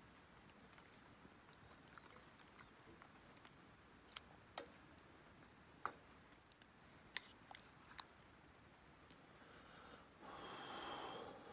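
Near silence with a few faint, sharp clicks scattered through it, and a short rustling noise near the end.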